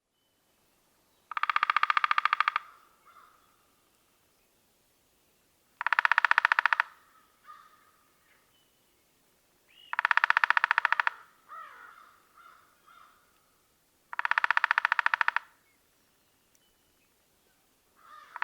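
A bird repeating a long, buzzing call about a second and a half long, four times at roughly four-second intervals, with quieter short calls in between.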